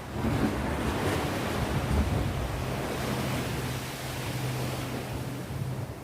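Sea waves washing on the shore: a rush of surf swells up just after the start and eases off near the end, over a low rumble.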